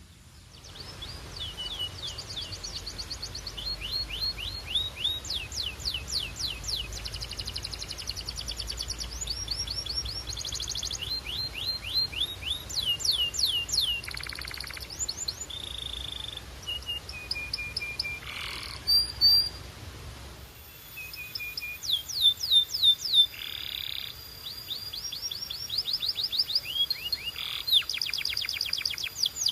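Domestic canary singing: rapid trills of repeated whistled notes that change speed and pitch from phrase to phrase, with short held tones and brief pauses between runs.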